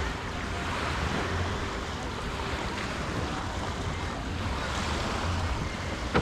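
Surf washing onto a sandy beach, a steady wash of waves, with wind buffeting the microphone.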